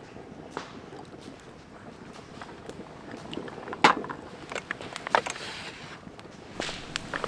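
Steady outdoor wind noise with scattered sharp clicks and snaps, the loudest about four seconds in.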